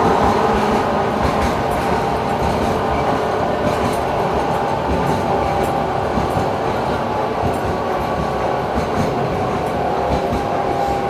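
Interior of an LM-99K tram running along the track, wheels knocking over the rails above a steady running rumble.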